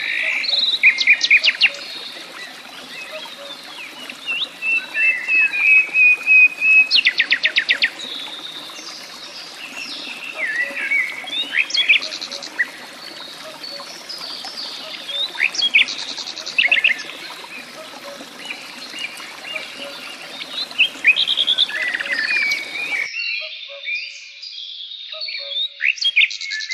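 Birds calling and chirping, with several fast trills and one steady whistled note held for about two seconds, over a steady open-air background hiss that drops out abruptly about 23 seconds in.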